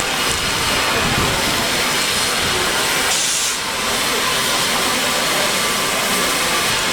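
Steam locomotive hissing steadily: a loud, even hiss of escaping steam, with a brief sharper, higher burst about three seconds in.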